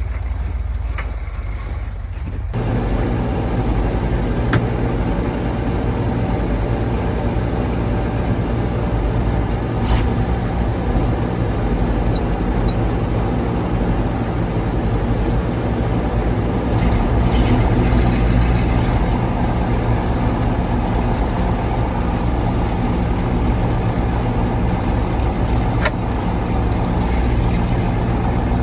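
1985 KAMAZ 4310 6x6 truck's V8 diesel engine running steadily as the truck drives off-road. For the first couple of seconds only a low rumble is heard, then the full engine sound comes in suddenly, with a few sharp clicks or knocks later on.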